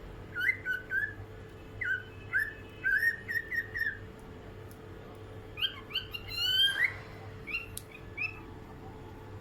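Cockatiel singing: a string of short whistled notes, each ending on an upturn, then a pause, then a quicker run of notes climbing in pitch and a few last notes. A faint steady hum runs underneath.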